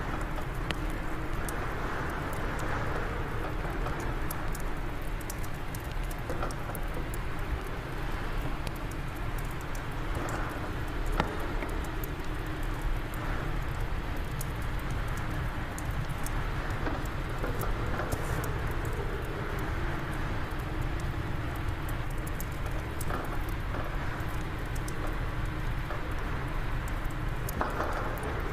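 Wood fire crackling in a fireplace, with many small pops and one louder pop about eleven seconds in, over a steady rush of wind.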